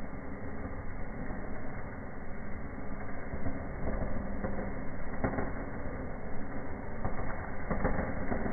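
Fireplace firework burning: a steady rushing fizz with scattered crackles.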